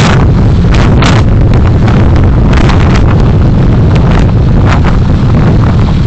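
Car dashcam picking up a loud, steady low rumble of road and wind noise while driving, with brief bursts of hiss every second or so.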